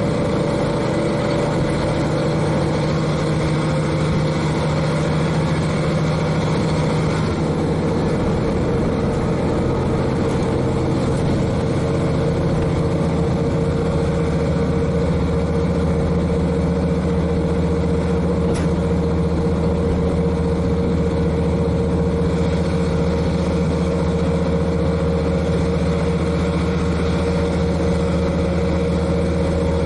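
Diesel railcar engine (KiHa 40's N-DMF13HZI) running steadily under the floor, heard from directly above it, mixed with the rumble of the train running along the track. The engine note rises slightly about halfway through.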